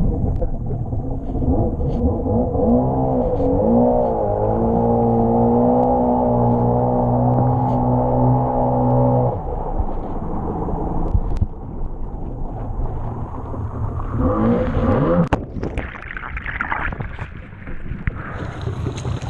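Jet ski engine running. Its pitch dips and rises, then holds steady for several seconds before dropping away suddenly about nine seconds in. Later it rises in pitch again amid wind and water noise.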